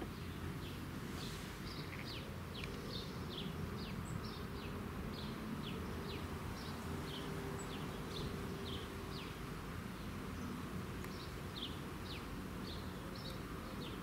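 A small bird chirping over and over, short high notes that slide downward, about two a second, over a low rumble of wind on the microphone.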